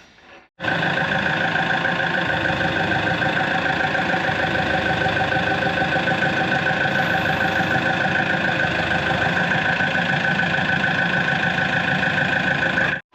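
Hydraulic track press's power unit running steadily under load as it presses a crawler track master link together, a constant mechanical drone with a fixed pitch. It starts suddenly about half a second in and stops suddenly just before the end.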